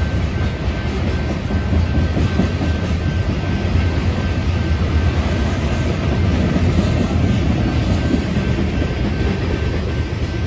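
BNSF freight train of covered hopper cars passing at speed: a steady, loud rumble of steel wheels rolling on the rails.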